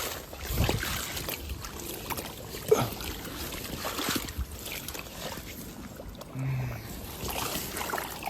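Irregular footsteps squelching and splashing through shallow water and mud.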